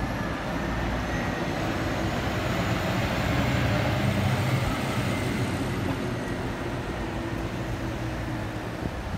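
Road traffic: vehicle engines running with a steady low hum that swells to its loudest about four seconds in, then eases.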